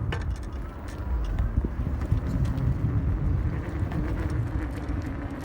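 1500 W hub-motor electric pit bike being ridden: a steady rumble of wind and tyre noise, with a faint steady whine from the hub motor.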